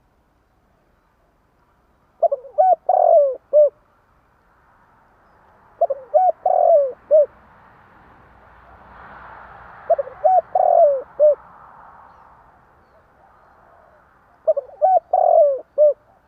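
Spotted dove (tekukur) cooing: four coo phrases, each a quick run of a few short notes, coming about every four seconds, over a faint background hiss.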